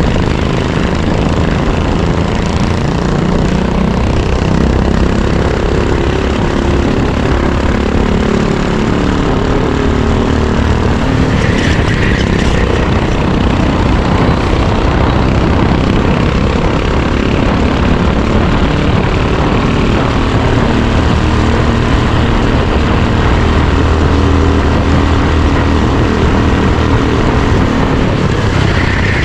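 Racing go-kart engine heard onboard at speed, its revs repeatedly rising and falling as the kart accelerates and slows.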